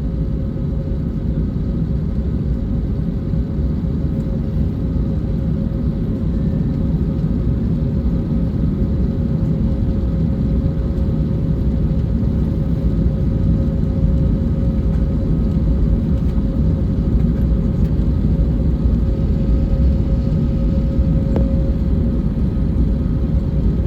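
Cabin noise inside an Airbus A321neo on the ground before takeoff: a steady deep engine rumble with a steady whine running through it, growing slightly louder.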